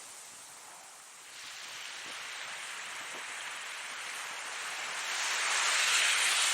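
Ocean surf: a wave washing in as a rushing hiss of water that builds from about a second in to its loudest near the end.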